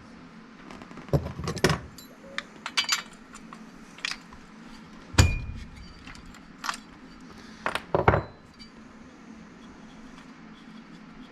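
Metal hand tools and small metal parts clinking and clattering against each other and the bench in irregular clusters, with one sharper ringing clink about halfway through, over a steady low hum.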